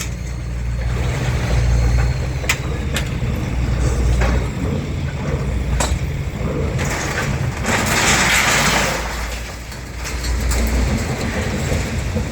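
Road vehicle engine running with a steady low rumble, with scattered clicks and knocks. About eight seconds in, a louder rushing hiss swells for a couple of seconds and fades.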